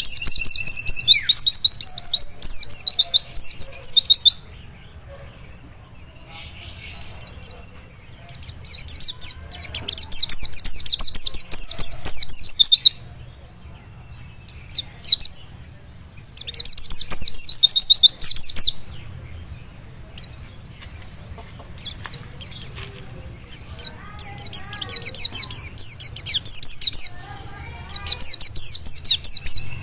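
White-eye (pleci) singing: rapid, high twittering phrases of a few seconds each, five in all, with softer calls in the short gaps between. It is a wild white-eye's song, used as a lure to set other white-eyes singing.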